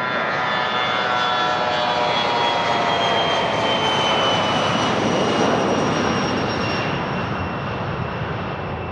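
Business jet passing close by: its turbine whine slides down in pitch as it goes past, over a loud rushing engine noise that swells to its peak about halfway through and then eases.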